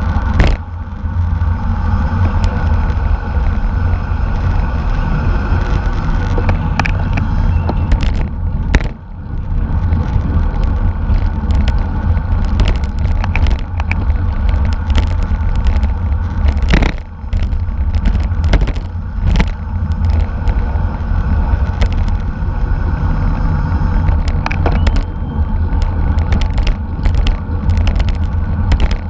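Bicycle racing ride noise: a loud, steady low rush of wind and road rumble with many sharp knocks and clicks scattered through it.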